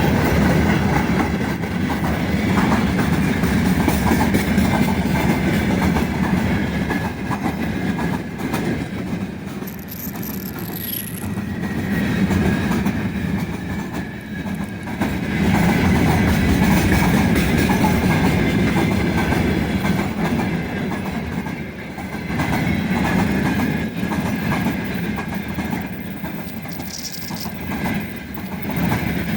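Freight train wagons rolling past at speed, their wheels clacking over the rail joints. The noise swells and eases every few seconds, with a faint steady whine from the wheels.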